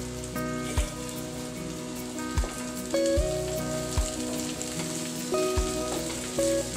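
Chopped okra sizzling as it fries in hot oil in a kadai, with a spatula in the pan. Soft background music with held notes and a low beat about every second and a half plays along.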